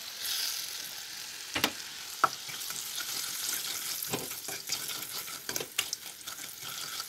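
Garlic frying in hot oil in a wok, sizzling steadily, while a wooden spatula stirs it and knocks sharply against the pan several times.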